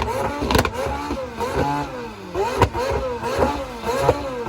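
Car engine revved over and over in quick blips, its pitch rising and falling about twice a second, with a few sharp pops.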